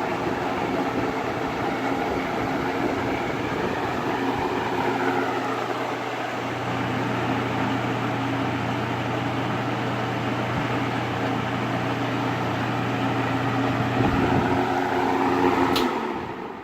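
20-inch Edison box fan running on high, a steady rush of air with a low motor hum. Near the end a click is followed by the sound starting to die away: the fan is switched off and begins to spin down.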